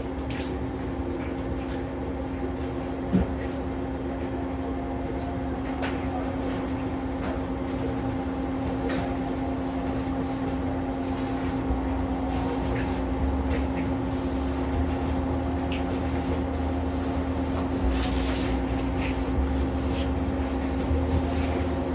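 A steady machine hum with a low rumble that grows louder about halfway through, and scattered light clicks and knocks, one sharper knock about three seconds in.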